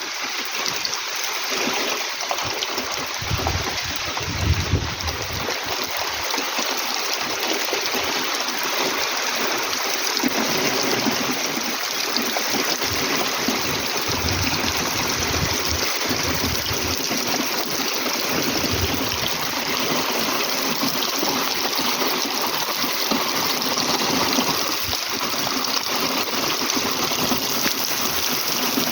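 Rain falling steadily, a dense even hiss of water.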